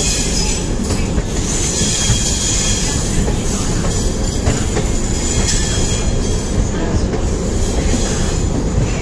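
Rajdhani Express train running at low speed just out of the station: steady rumble of the coach wheels on the track, with a high wheel squeal coming and going.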